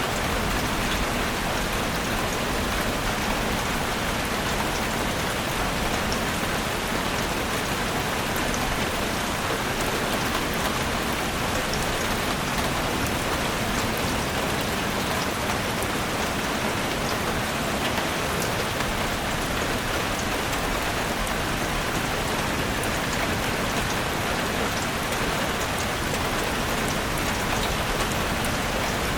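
Steady rain falling on a forest, a constant hiss with many close drops pattering and ticking on leaves and the ground.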